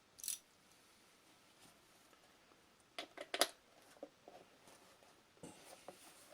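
Scattered clicks and light metallic knocks of hand tools working at a tight mounting bolt on a leaf blower, with a quick cluster of sharper clicks about three seconds in.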